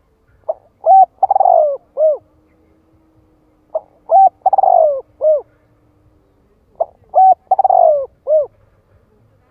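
Spotted dove cooing: three identical phrases of several short coos each, repeated about every three seconds. This is the male's song, the call used as a lure to bring wild doves in to answer.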